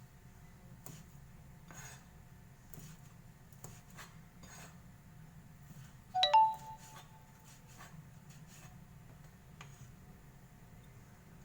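Kitchenware being handled: faint light taps about once a second, and about six seconds in one sharp clink that rings briefly with several bright pitches.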